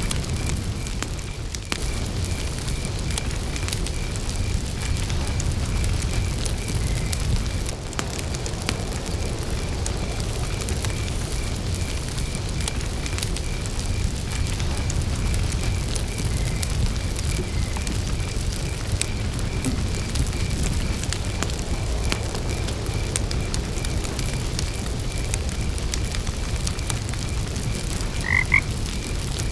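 Campfire crackling over a steady low rumble, with crickets chirping in an even, continuous pulse. Near the end a frog gives two quick croaks.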